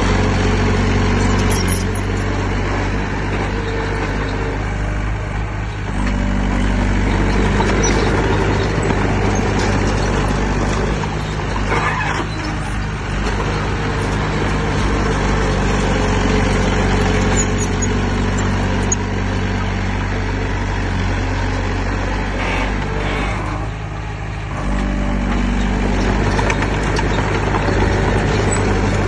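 Diesel engine of heavy earthmoving equipment running steadily under work, its note shifting and briefly easing a few times.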